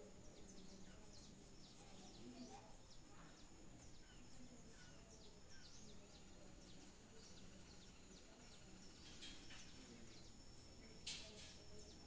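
Near silence with faint, frequent bird chirps in the background, and a brief rustle near the end.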